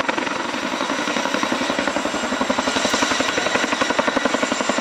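RAF Boeing Chinook tandem-rotor helicopter flying its display: the fast, even beat of its twin rotors, with a hiss above it.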